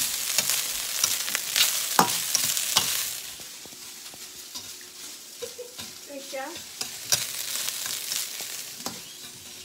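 Garlic fried rice sizzling in a stainless steel pan as it is stirred and scraped with a metal spatula, giving frequent clicks and scrapes over the hiss of the oil. The sizzling is loudest for the first three seconds, then drops to a quieter level.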